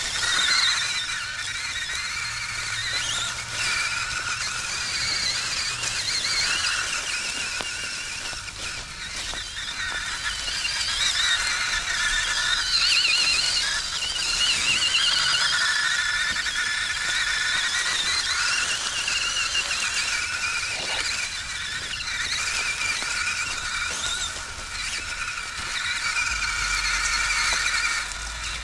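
Electric motor and two-speed gearbox of an FMS K5 Blazer-based RC crawler whining as the truck drives a trail in high gear. The high whine rises and falls in pitch with the throttle and never stops.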